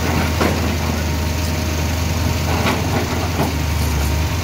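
A vehicle engine idling steadily with a deep, even hum.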